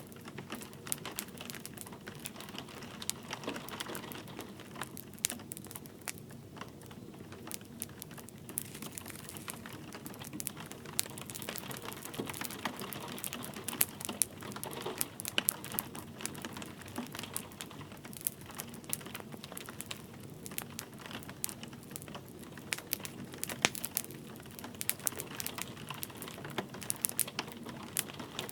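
Wood fire crackling steadily with frequent sharp pops and snaps, over a soft hiss of light rain.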